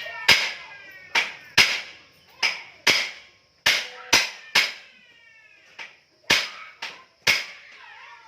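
Repeated hammer blows on metal, about a dozen sharp strikes at roughly two a second and slightly uneven, each with a short metallic ring. It sounds like a stuck engine part being knocked loose during disassembly.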